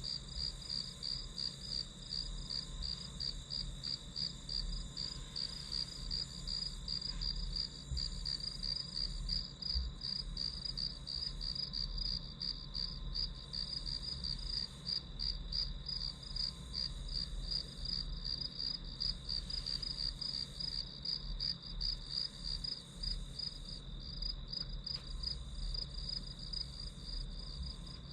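Crickets chirping continuously in a fast, even pulse, with a faint low hum beneath.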